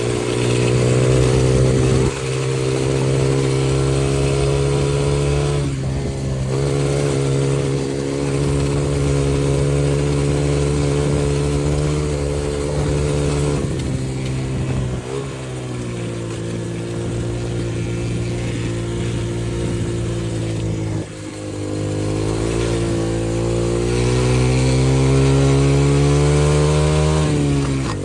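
X-Pro 125cc dirt bike's single-cylinder four-stroke engine running under throttle while riding. Its note holds or climbs slowly, then drops sharply about five times before picking up again.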